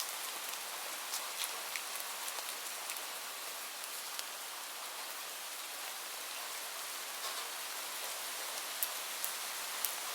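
Steady rain falling: an even hiss of rain with scattered sharper ticks of single drops striking close by.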